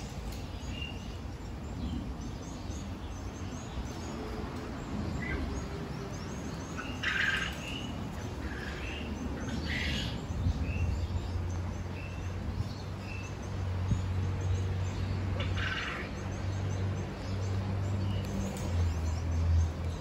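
Short bird chirps every second or two, with three brief, louder, noisier sounds among them, over a low steady hum.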